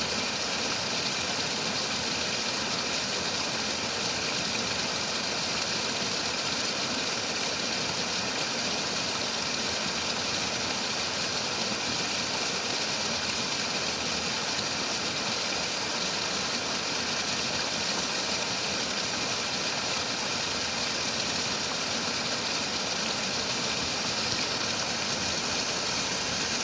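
Running water rushing steadily, an even unbroken hiss with no changes or separate events.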